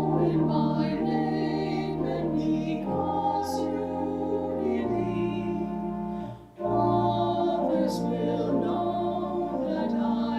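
A hymn sung with sustained keyboard accompaniment, in long held phrases with a short break between phrases about six and a half seconds in.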